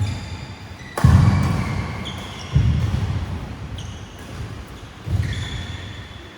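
Players' feet thudding and court shoes squeaking on an indoor badminton court during a rally, with four heavy thuds that ring on in the hall and short high squeaks between them.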